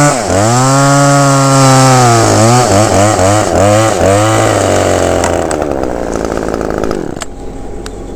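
Two-stroke chainsaw running loud at high revs, its engine speed sagging and rising again several times, then dropping back towards idle about five to seven seconds in.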